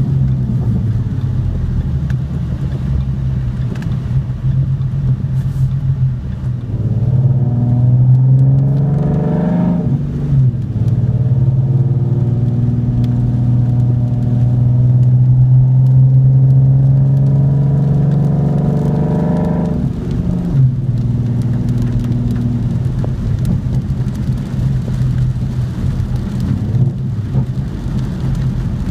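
2014 Ford Mustang's 3.7-litre V6, with long-tube headers, an H-pipe and a muffler delete, heard from inside the cabin. It runs at low revs, then accelerates from about seven seconds in with the pitch rising. The pitch drops sharply at a gear change near ten seconds, climbs slowly again until about twenty seconds, then falls back to a steady cruise. Rain taps on the car throughout.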